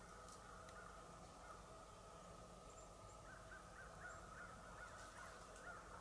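Faint forest ambience. About halfway through, a bird calls a quick run of short repeated notes, and a few faint high chirps come from elsewhere.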